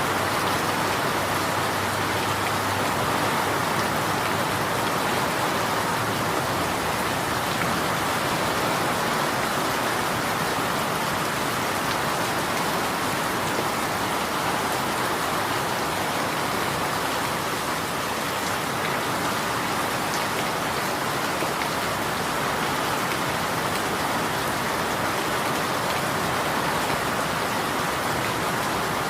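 Steady rain falling, an even rushing hiss with no distinct drops or changes.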